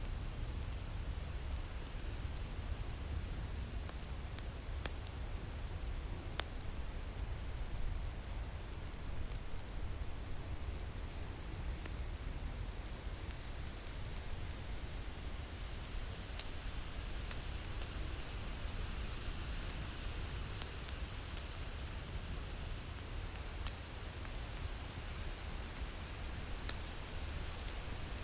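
Ambience of winter wind and a crackling fire: a steady low wind rumble under a hiss, with scattered sharp pops and snaps from the fire.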